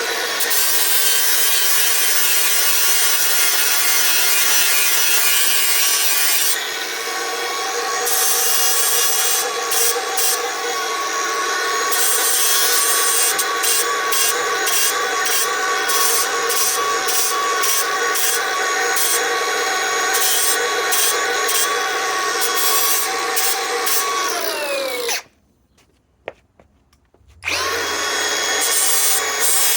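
Milwaukee M18 Fuel 3672-20 cordless angle grinder running under load against billet metal, with a steady motor whine over scraping grinding noise. About 25 seconds in, it is switched off and spins down, falling in pitch. After about two seconds of quiet it starts up again.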